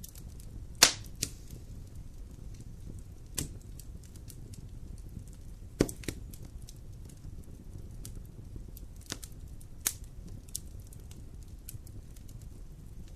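Campfire crackling, with a few sharp, separate pops over a steady low rumble; the loudest pops come about a second in, near the middle and again near the end.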